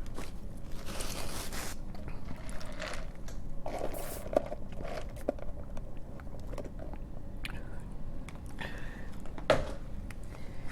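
A person chewing a mouthful of barbecue rib sandwich close to the microphone, with scattered wet mouth clicks and smacks.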